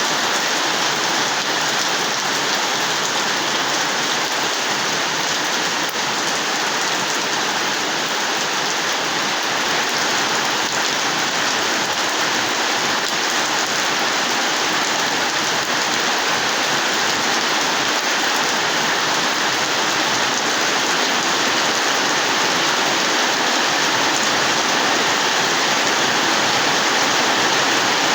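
Steady rain falling and pattering on surfaces, an even hiss without thunder or breaks.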